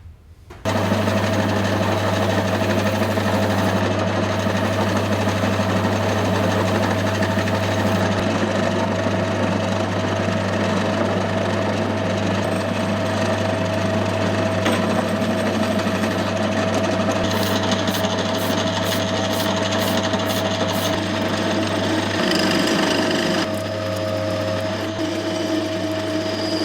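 An electric power tool running steadily with a constant hum and a dense grinding noise. It starts abruptly just under a second in and drops a little in level near the end.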